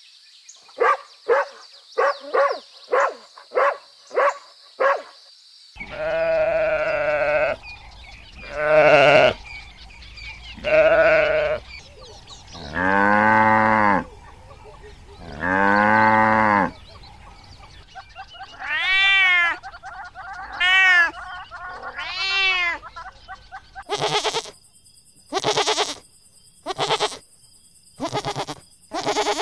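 A run of about eight short dog barks, then cows mooing in five long low calls, then goats bleating: three drawn-out bleats followed by a run of shorter ones near the end.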